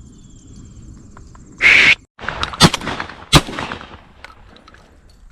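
Three shotgun shots: a very loud blast about one and a half seconds in that overloads the microphone, then two sharp shots less than a second apart, each trailing off.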